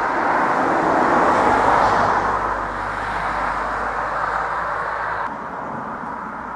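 Irish Rail 22000 class diesel multiple unit passing through a level crossing: a loud rush of engine and wheel noise with a low engine hum, loudest a second or two in and then easing off. It cuts off suddenly about five seconds in, leaving quieter outdoor noise.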